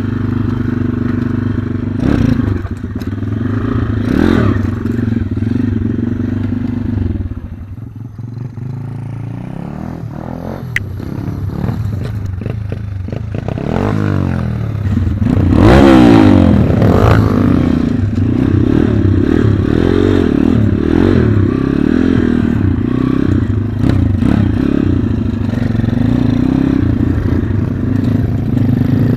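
Small single-cylinder four-stroke pit bike engine running. It drops back for a few seconds about a quarter of the way in, then is revved repeatedly from about halfway, its pitch rising and falling.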